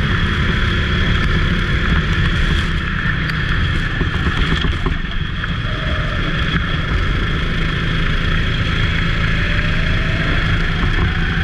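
Go-kart engine running steadily under way, with a rushing noise over it.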